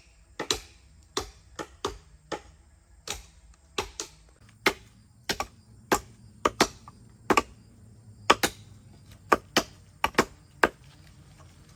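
Hammer blows on wood, as in nailing down wooden floorboards: sharp, irregular knocks about two a second, often in quick pairs.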